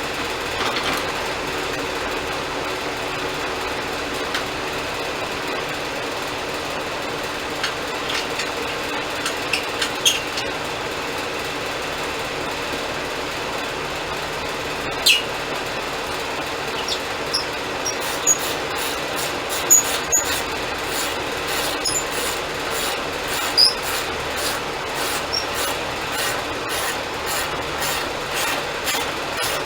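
Portable band sawmill running and sawing through a pine log: a steady machine noise with a low hum and scattered sharp squeaks and clicks. About two-thirds of the way in, a regular ticking sets in at roughly two a second.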